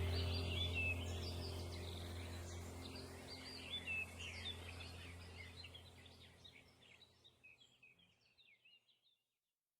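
Small songbirds chirping and twittering over a steady low hum, the whole fading out to silence over the last few seconds.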